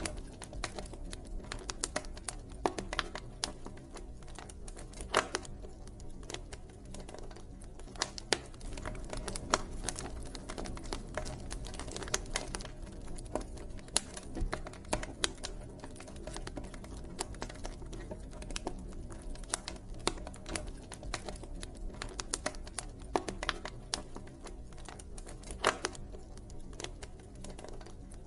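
Campfire crackling: irregular sharp pops and snaps, several a second, over a low steady rumble of the burning fire.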